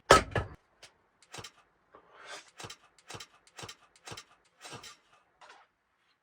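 Kindling and wood being handled at a wood stove to rekindle the overnight coals: a sharp knock, then light knocks and rustles about twice a second.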